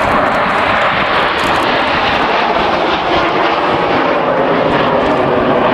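Jet engines of the Red Arrows' BAE Hawk trainers running at high power: a loud, steady jet noise with no breaks.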